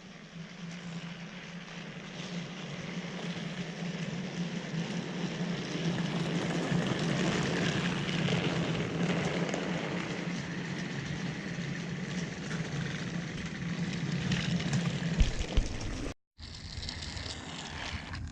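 Battery-powered Trackmaster toy engine (Percy) running along plastic track: a steady electric-motor hum with gear and wheel rattle, growing louder over the first several seconds. It cuts off sharply about two seconds before the end, and a rougher, more uneven noise follows.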